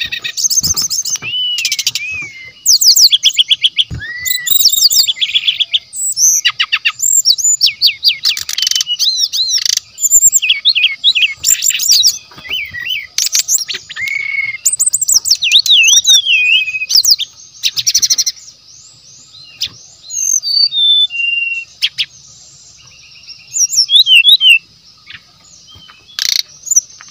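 Brown-chested jungle flycatcher singing loudly and energetically: rapid runs of varied whistles, trills and chattering phrases, broken by short pauses. A steady faint high hiss sits behind the song.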